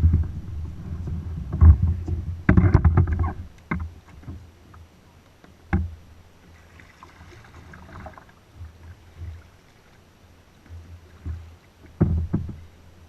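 Kayak paddling: irregular knocks and thuds of the paddle and hull, clustered in the first few seconds and again near the end.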